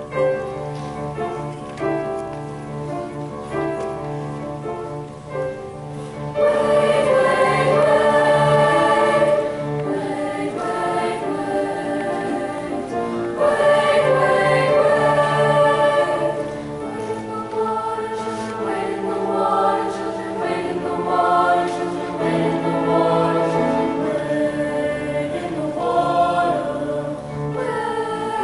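School choir singing in several-part harmony, with held chords that swell louder about six seconds in and again about halfway through.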